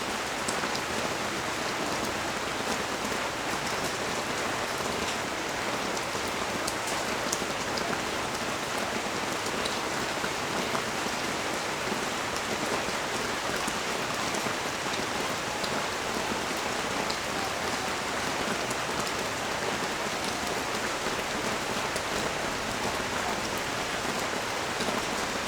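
Steady heavy rain falling on the street and balcony surfaces, an even hiss with scattered individual drops ticking through it.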